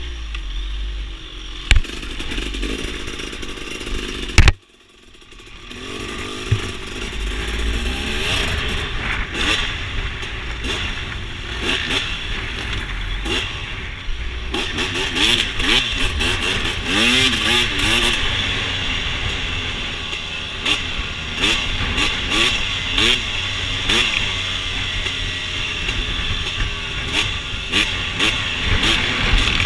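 Dirt bike engine picked up by a GoPro, revving up and down with rising and falling pitch as the bike is ridden, with frequent short knocks and crackles. Near the start there are two sharp loud knocks and a brief drop to near silence, after which the engine sound builds back up.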